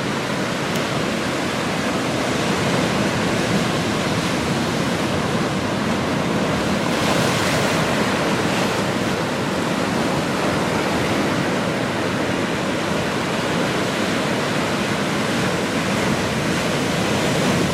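Steady rushing of ocean surf mixed with wind buffeting the microphone, with a slightly stronger surge about seven seconds in.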